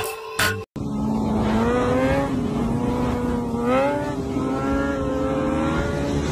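Motorcycle engine held at high revs during a wheelie, with its pitch rising briefly a couple of times.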